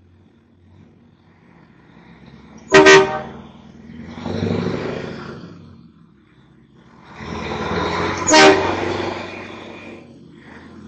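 Two short horn toots about five and a half seconds apart, each within a swell of vehicle noise.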